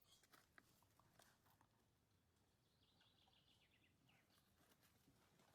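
Near silence: faint outdoor ambience, with a distant bird giving a short run of faint chirps about three seconds in.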